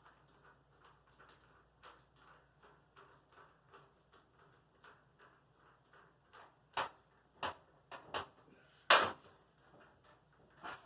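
A few sharp clicks and knocks of parts being handled, the loudest about nine seconds in, over a faint steady ticking.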